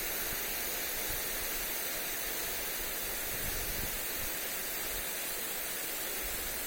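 Lawn sprinkler spraying water onto grass, a steady hiss, with wind gusting on the microphone as an uneven low rumble underneath.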